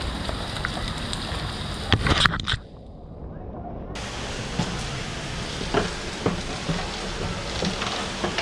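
Steady rain and water sloshing as a wet beaver carries a branch through puddles, with a loud burst of rustling and knocks about two seconds in before the sound drops suddenly quieter. From about four seconds in the steady patter returns with scattered clicks and scrapes as the beaver climbs a wooden ramp.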